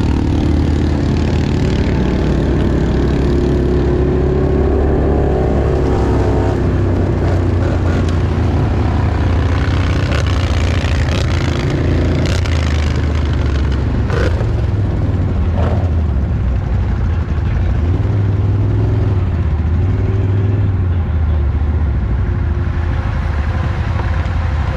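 Off-road vehicle engine running while riding, with a rising rev about five seconds in and a few knocks and rattles near the middle.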